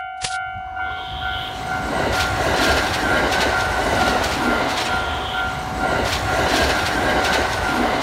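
A train passes through a Japanese level crossing, its wheels clacking over the rail joints, while the crossing warning bell keeps ringing underneath.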